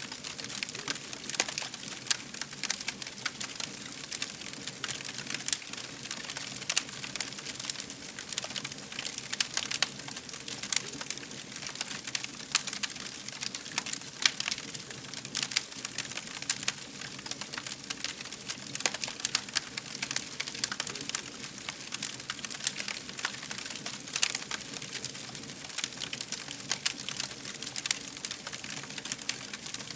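Wood fire crackling: a dense stream of irregular snaps and pops over a steady hiss, with a louder pop every few seconds.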